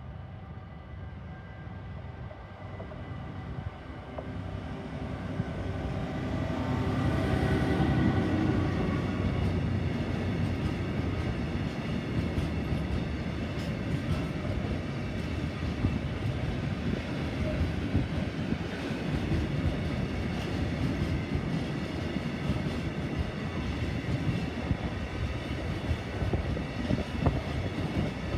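Diesel freight locomotive approaching and passing close by, its engine note growing louder to a peak about eight seconds in. A long train of tank wagons follows with a steady rumble of wheels on the rails and scattered clicks.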